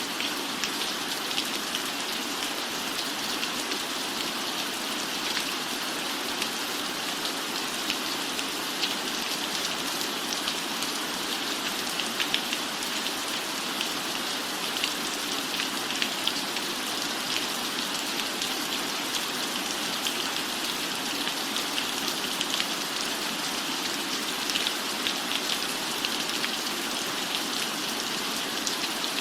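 Steady rain falling on a cabin roof, a constant hiss with many small, sharp drop ticks.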